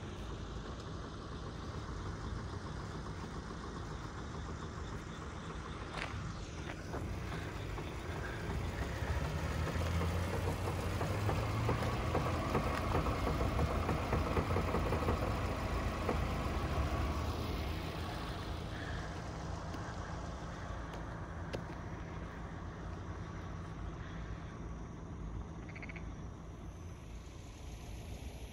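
A car's engine running close by, its low rumble swelling from about nine seconds in and easing off again after about seventeen seconds, over a steady outdoor hiss.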